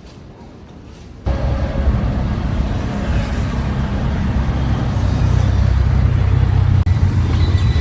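Steady low rumble of a moving vehicle that starts suddenly about a second in and stays loud.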